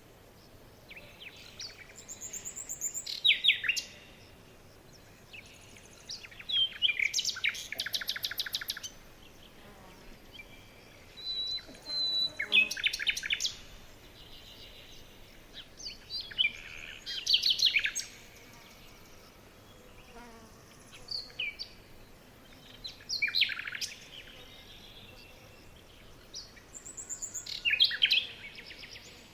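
Songbirds singing in short phrases of rapid chirping notes, about every four to five seconds, with a quieter background between phrases. A brief thin whistle comes in around the middle.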